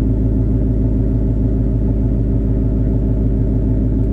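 Ford Mustang 6th-gen V8 idling steadily with its exhaust valves open, a deep, even burble from the H-pipe exhaust, the engine still cold.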